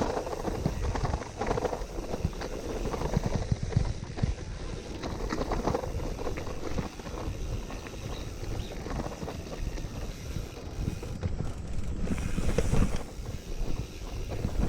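A gravel bike riding over a rough, loose dirt-and-stone trail: tyres crunching and rumbling on the surface, with frequent irregular rattles and knocks from the bike as it goes over bumps.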